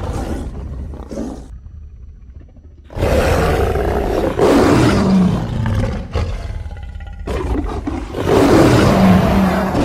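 Giant jaguar creature roars built by layering big-cat roars. One roar trails off in the first second and a half, then after a short pause a long loud roar starts about three seconds in, and another comes near the end.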